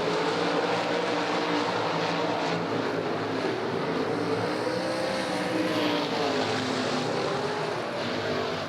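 A field of sprint cars racing, several V8 engines running at once, their pitches rising and falling as the cars go around the track. The sound eases slightly near the end.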